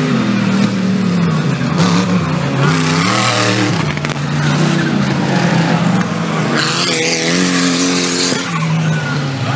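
Off-road 4WD race vehicle's engine running hard, its pitch rising and falling repeatedly with throttle and gear changes, with two longer bursts of hiss from the tyres on dirt, one about two seconds in and one near the end.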